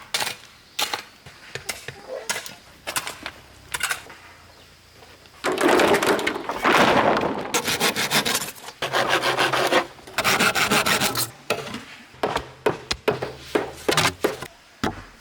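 Bamboo being worked by hand: scattered sharp knocks, then two long spells of sawing about six and ten seconds in, then more knocks.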